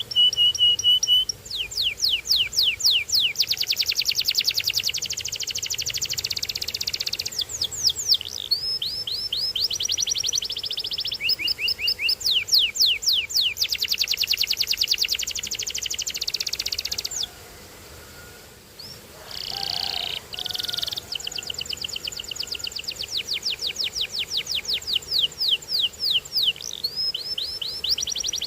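Canary singing: long rapid trills of quick falling whistled notes, run together in changing phrases, with a pause of about two seconds past the middle before the song resumes.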